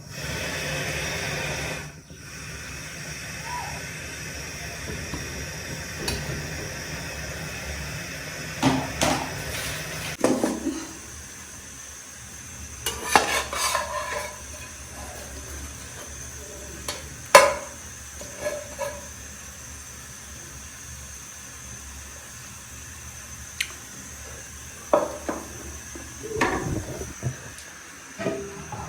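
Kitchen cooking sounds: a steady sizzling hiss with a utensil stirring and clinking against a pan and dishes several times.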